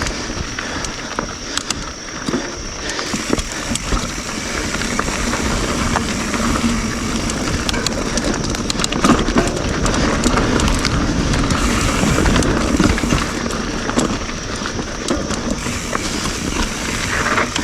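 Full-suspension YT Jeffsy mountain bike being ridden over rough dirt singletrack: tyres on dirt and rock, chain and frame rattling with many small clicks and knocks, and wind rumble. It gets louder for several seconds in the middle as the pace picks up.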